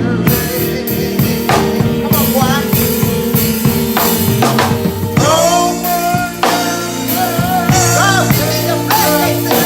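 Church band music with a drum kit and sustained bass notes, and a voice singing a wavering melody over it from about two seconds in.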